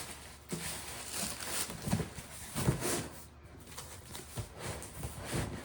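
Parcels being handled: irregular rustling and soft knocks of packaging and cardboard boxes.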